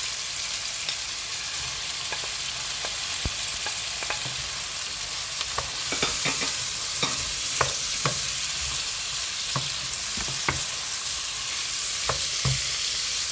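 Chicken fillet, onions and bell peppers sizzling as they fry in oil in a pan, with a steady hiss. The stirring utensil knocks and scrapes against the pan at irregular intervals.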